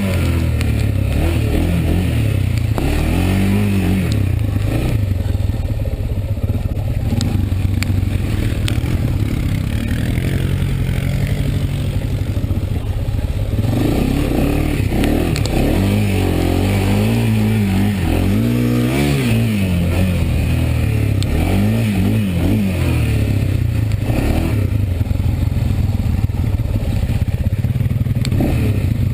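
Honda ATV's single-cylinder four-stroke engine running under load on a muddy trail, the throttle opening and closing so the engine note rises and falls again and again, with scraping and clattering from the quad over the rough ground.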